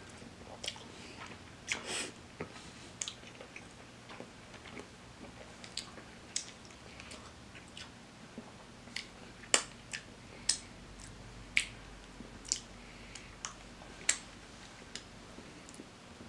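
Fried chicken being chewed close to the microphone: irregular wet mouth clicks and smacks, a handful of them sharper and louder than the rest.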